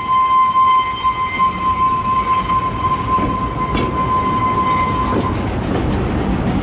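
Narrow-gauge steam train on the move: a long, steady, high-pitched tone that stops about five seconds in, then the rumble and clatter of the carriage wheels building, with one sharp click near the four-second mark.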